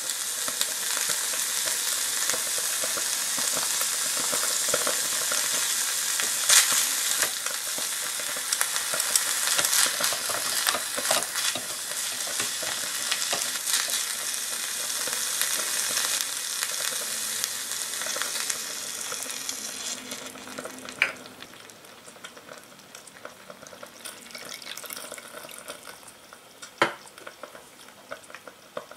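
Diced chicken sizzling in a tiny clay pot on a miniature hotplate, stirred with a small wooden spatula that clicks and scrapes against the pot. About two-thirds of the way through, the sizzle dies down sharply once liquid covers the chicken, leaving a faint hiss and a couple of sharp spatula taps near the end.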